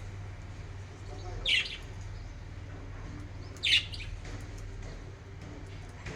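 Budgerigar giving two loud, short, high chirps about two seconds apart, over a steady low hum.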